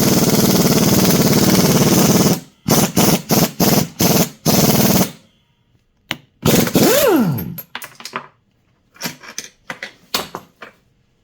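Power tool run in bursts: one long run of about two and a half seconds, then several short ones, then a brief spin that winds down in pitch, followed by a few clicks and knocks.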